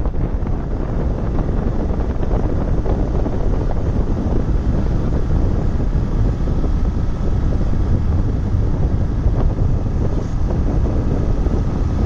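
Wind buffeting the microphone from a moving vehicle: a loud, steady low rumble.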